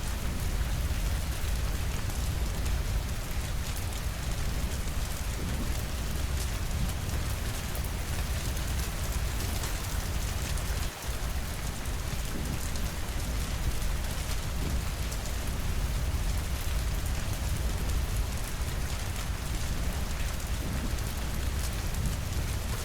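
Steady rainfall, an even hiss with fine patter and a deep low rumble beneath it. The level dips briefly about halfway through.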